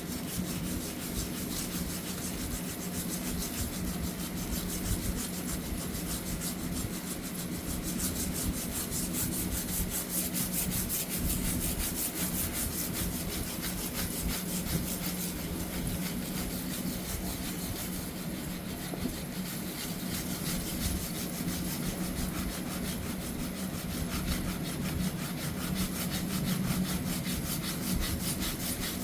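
Steel wool scrubber scouring a surface in continuous rapid rasping strokes.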